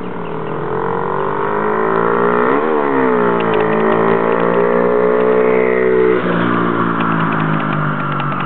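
Small Baja dirt bike engine running under throttle. Its pitch climbs, peaks sharply and dips about three seconds in, then holds steady until it drops suddenly about six seconds in.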